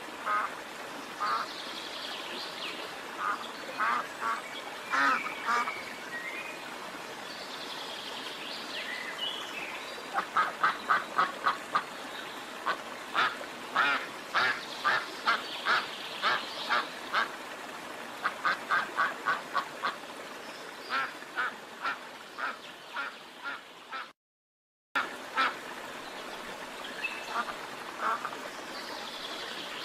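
Ducks quacking in repeated runs of short quacks over a faint steady background. The calls are loudest in a fast series of about five quacks a second near the middle. The sound drops out for about a second shortly before the end.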